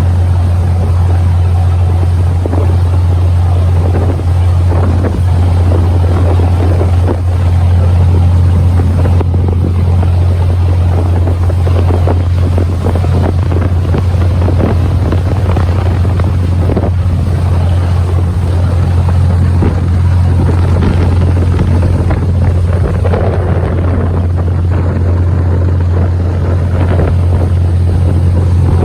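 Motorboat engine running steadily under way, a constant low drone, with wind buffeting the microphone.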